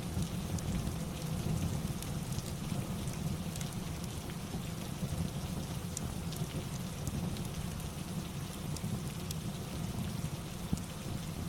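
Steady rain ambience, a constant even hiss with a heavy low rumble, sprinkled with scattered short sharp ticks.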